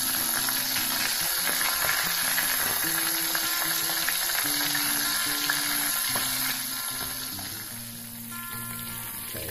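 Chicken pieces frying in hot oil in a wok, sizzling steadily with faint crackles while a wooden spatula stirs and turns them; the sizzle eases somewhat near the end. Background music with a slow melody plays underneath.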